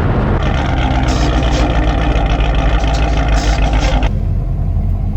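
Performance car engines running hard at high revs during a street race. The higher part of the sound cuts off about four seconds in, leaving a low rumble.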